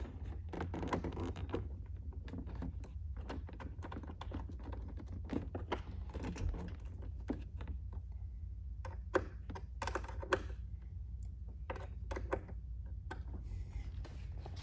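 Irregular small clicks and clinks of hand tools and metal as the battery's negative ground cable terminal is refitted and tightened, over a steady low hum.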